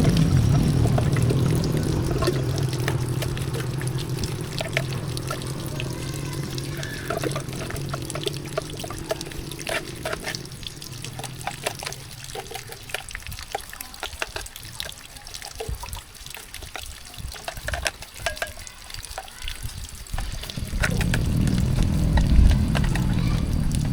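Water running or pouring in a steady rush that fades out about ten seconds in, leaving scattered clicks and knocks, then starts again near the end.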